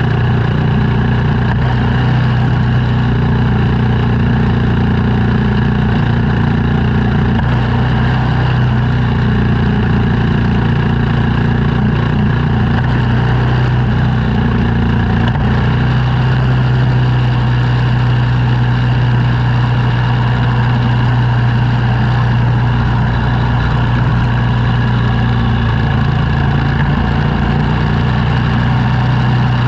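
An engine running steadily under snow-clearing work, its low hum shifting slightly about halfway through and again near the end.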